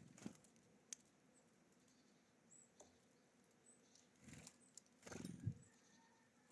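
Small birds feeding at a seed feeder: faint taps, pecks and scuffles, with a few very short, faint high chirps, the loudest scuffle about five and a half seconds in.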